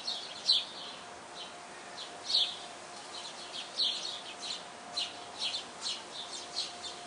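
Small birds chirping: many short, high chirps, a few every second, with some louder ones standing out.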